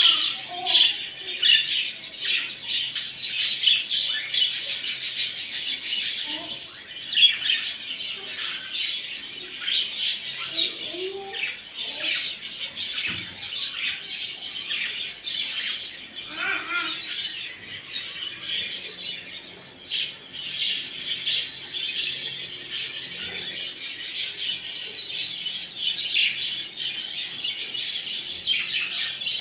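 A group of budgerigars chattering and warbling without pause, a dense stream of chirps and twitters, the kind of budgie chatter played to get a male budgie into breeding condition.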